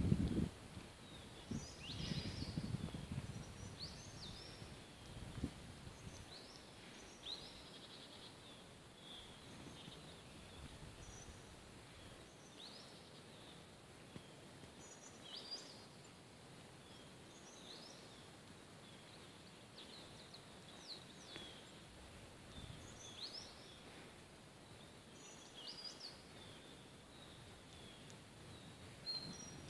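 Faint, high, short chirping calls of a small bird, one every second or two, each a quick downward sweep, over quiet outdoor ambience. A low rumble fills the first few seconds.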